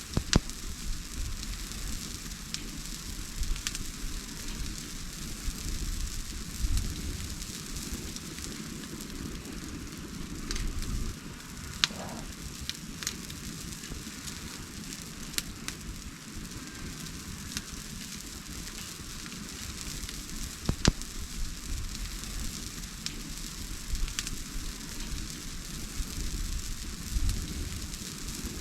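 Wood fire burning with a steady hiss and crackle, broken by scattered sharp pops; the loudest comes about 21 seconds in.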